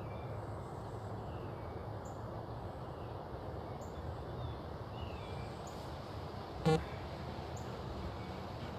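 Steady outdoor background noise with a low hum like distant traffic, and faint bird chirps scattered through it. One short, sharp pitched sound stands out about two-thirds of the way through.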